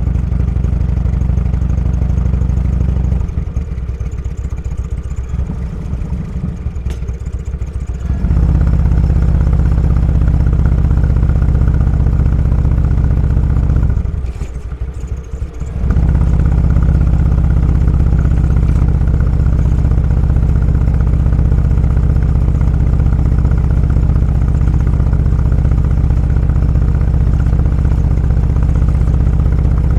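Motorcycle engine running under way with a steady low note; the throttle eases off about three seconds in for several seconds and again briefly around the middle, each time pulling back up to the same steady note.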